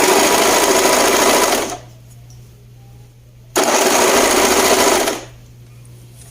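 Electric sewing machine stitching a seam in two runs, each about a second and a half long, with a short pause between them.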